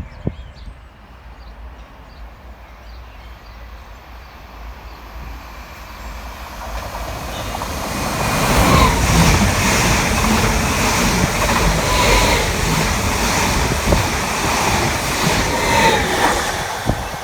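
Train approaching and running past on the line, growing louder from about six seconds in, with wheel clatter repeating at regular spacing as the carriages go by.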